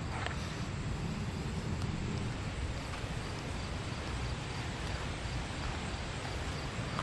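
A car on the move: a steady low rumble of engine and road noise under an even hiss.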